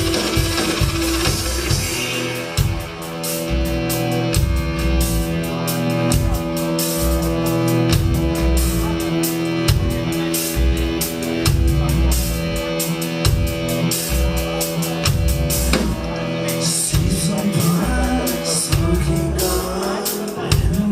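Live band playing an instrumental passage: drum kit with steady hi-hat and kick, bass, guitar and held keyboard notes. The high cymbal strokes drop out briefly about three quarters of the way through before the groove comes back.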